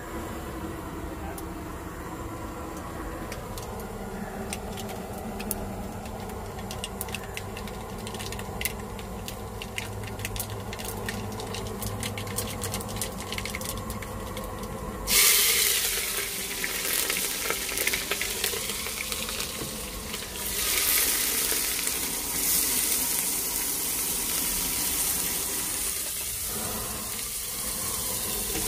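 Food frying in a pan. A loud sizzle starts suddenly about halfway through and swells again a few seconds later. Before it there is a low background with scattered clicks.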